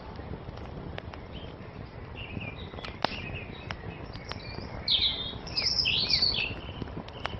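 Songbirds singing over a crackling wood fire: short chirping phrases about two seconds in and a louder burst of song about five seconds in, with scattered sharp pops from the fire and a low steady rush beneath.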